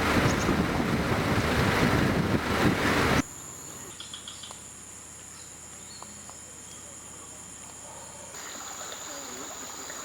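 A loud rushing noise that cuts off abruptly about three seconds in. It gives way to a quiet passage in which insects keep up a steady, high-pitched trill, with a few faint clicks.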